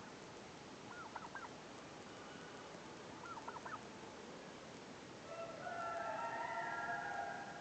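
A rooster crowing once, a drawn-out call of about two seconds that starts about two-thirds of the way in. Two short bursts of quick chirping calls come before it.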